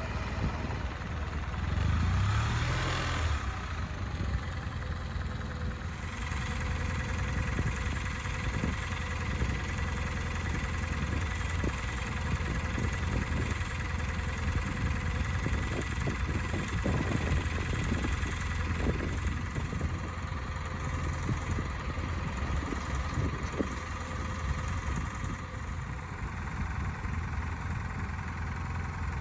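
Kawasaki W650's air-cooled parallel-twin engine idling steadily through its stock exhaust, briefly louder about two seconds in.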